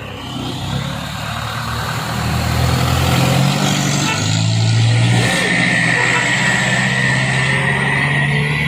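Heavily loaded truck's diesel engine revving and pulling under load, growing louder. A high steady whine joins in about halfway through.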